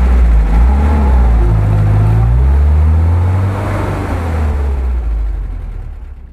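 UAZ-469 engine revving under load as the off-roader works in deep mud, the pitch climbing about halfway through; the sound fades out near the end.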